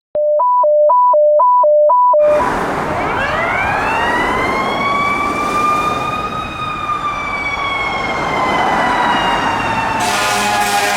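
A clean two-pitch hi-lo tone alternates about twice a second for two seconds. Then a fire truck siren wails, rising slowly over about three seconds and gradually falling, over traffic noise. Near the end a denser sound with many steady pitches comes in.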